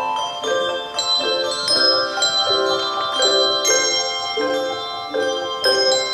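Handbell choir playing: chords of bells struck about every half second, each ringing on under the next.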